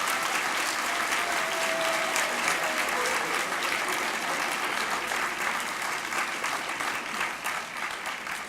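Large audience applauding steadily, fading near the end.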